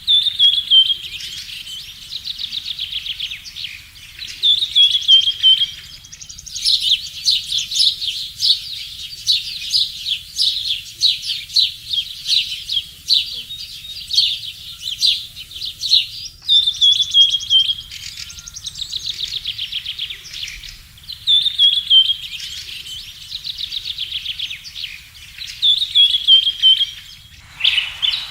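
Small birds chirping and trilling: repeated short falling phrases alternating with long rapid trills, high-pitched and continuous, with abrupt cuts about six and sixteen seconds in.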